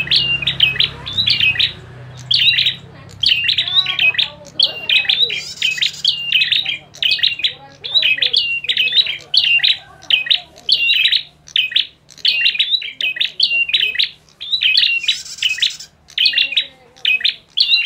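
Prenjak (prinia) birds calling excitedly in a fighting-call lure recording, made of sharp, high chirps repeated in quick bunches with barely a pause.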